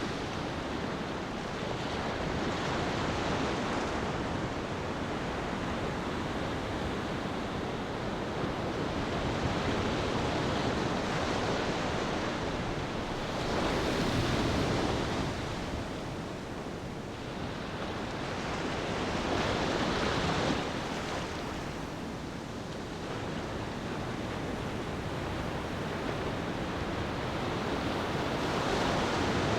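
Ocean waves washing onto a beach, a steady rushing that swells and falls back every several seconds.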